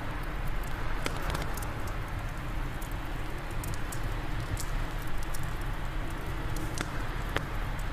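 Fireplace fire crackling, with scattered sharp pops, over a steady low rush of wind.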